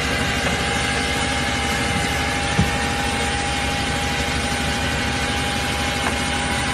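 Truck engine running steadily, with a constant whine over the low rumble and a brief thump about two and a half seconds in.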